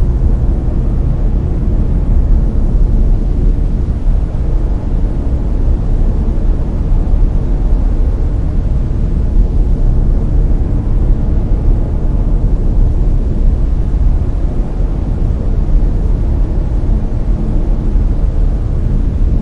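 Layered brown noise: a steady, deep rumbling hiss, strongest in the bass and fading off toward the treble, with no change throughout.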